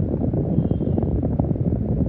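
Rough, low rumble of moving air buffeting the microphone, loud and unsteady.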